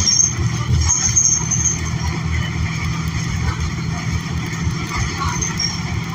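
Steady low rumble inside a New Flyer XN40 transit bus, its Cummins Westport L9N natural-gas engine and driveline running, with a brief high squeal near the start and again about a second in.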